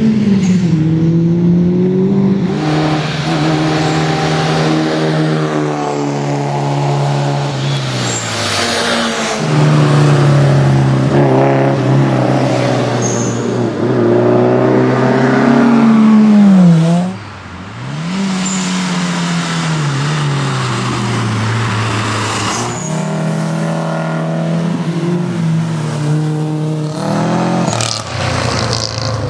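Subaru Justy AWD hatchback's engine revving hard on a race circuit, its pitch climbing and falling again and again as it accelerates, shifts and brakes for corners. About halfway through it peaks loudly, then its pitch and level drop steeply before it picks up again.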